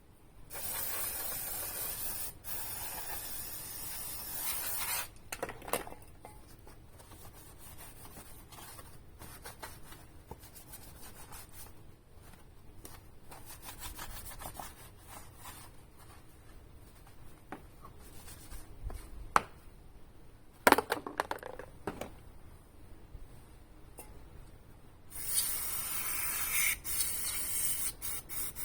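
Aerosol can spraying in two long hissing bursts, one in the first five seconds and another starting about 25 seconds in, with rubbing and wiping noises between them as motorcycle parts are cleaned, and a sharp clack about 21 seconds in.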